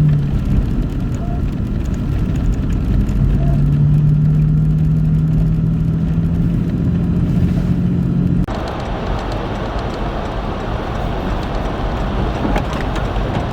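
Motor vehicle engine running steadily with a low, even hum. About eight seconds in, the sound cuts abruptly to a broad rushing noise.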